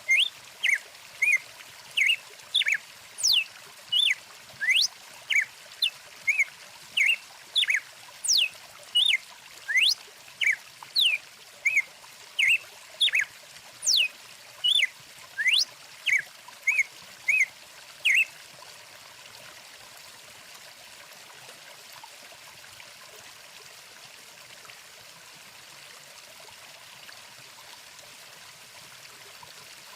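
Songbirds calling in quick chirps and fast rising and falling whistles over a steady faint rush of flowing stream water. The birds stop about eighteen seconds in, leaving only the water.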